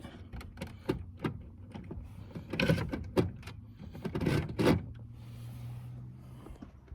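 Clicks and short sliding scrapes of a manual choke cable being worked in and out of its housing, which keeps popping out. A low steady hum comes in near the end.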